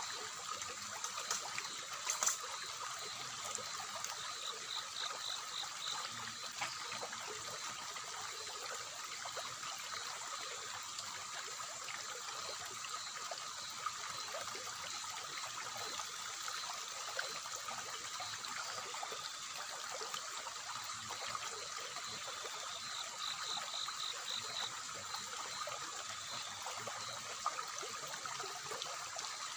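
River water flowing and trickling steadily. Twice, about four seconds in and again near the end, a brief rapid high-pitched pulsing sound rises over it.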